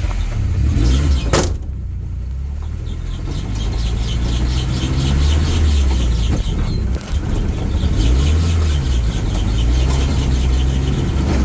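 Car engine running as the vehicle drives, its pitch rising and falling, with a sharp click about a second and a half in.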